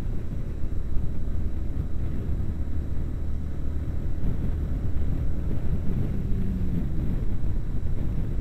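Yamaha YBR 250 single-cylinder motorcycle engine running while riding, heard from the helmet with wind rushing over the microphone; the engine pitch rises briefly about six seconds in.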